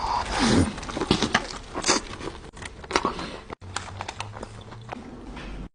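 Close-miked chewing of a mouthful of hot chicken slider: irregular wet clicks, smacks and soft crunches, with a short falling "mm" hum near the start.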